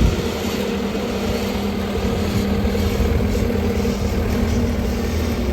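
Skid steer engine running steadily, a constant low drone with an even hum.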